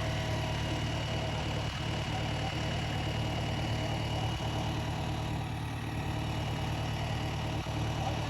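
Heavy diesel engine idling steadily, with an even low hum and no revving.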